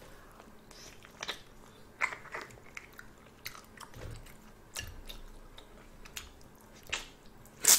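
Close-miked mouth sounds of someone eating shrimp: soft chewing broken by scattered wet clicks and small crunches, with a sharper click near the end.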